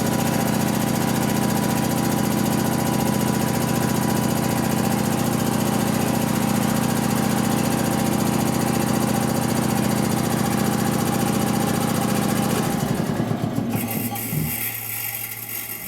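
A loud, steady mechanical drone with a low hum cuts off about 13 seconds in. A high hiss follows for a couple of seconds.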